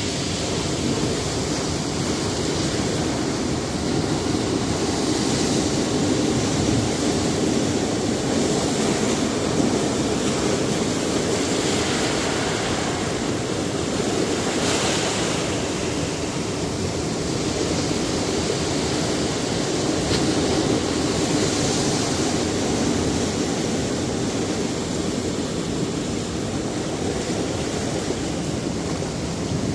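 Sea surf on a rocky shore: a continuous wash of waves, with breakers swelling louder every few seconds.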